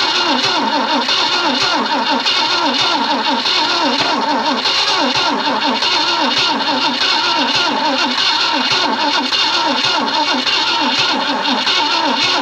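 1965 Ford Thunderbird's 390 V8 being cranked over by its starter motor in a steady, rhythmic cranking without catching. It is a long-dormant engine that will not fire.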